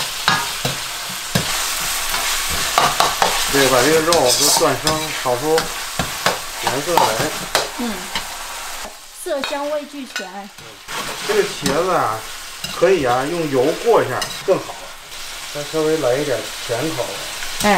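Minced pork and chili bean paste sizzling in hot oil in a wok, stirred and scraped with a metal ladle; eggplant strips go in later and keep frying. The sizzle drops for a moment about nine seconds in.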